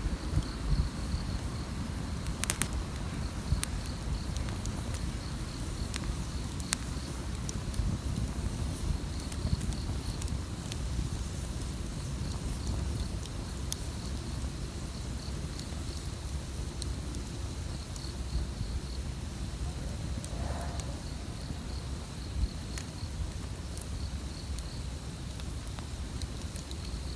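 Campfire burning, with scattered crackles and pops of wood over a low, steady rumble of the flames. An insect, likely a cricket, trills steadily and high-pitched in the background.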